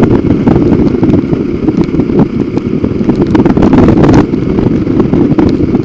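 Motorcycle running at riding speed, with heavy wind rumble on the microphone and a few brief louder rushes.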